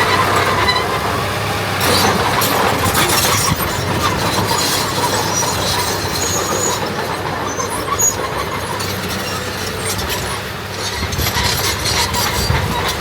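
Diesel earthmoving machinery at work: a steady low engine drone with scattered clicks and knocks over it.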